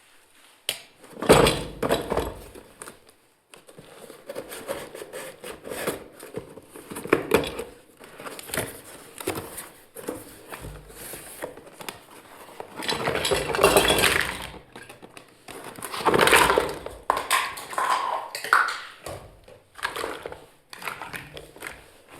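Pieces of a toy kitchen set being handled and unpacked: small dishes and utensils clinking and knocking irregularly, with longer stretches of rustling and clattering about halfway through and again a few seconds later.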